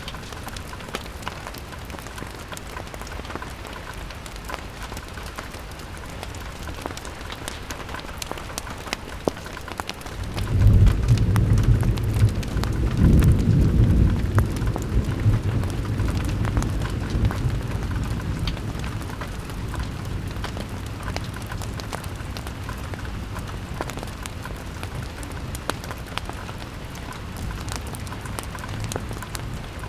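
Steady rain pattering on a window pane, with a low roll of thunder that builds about ten seconds in and slowly fades away.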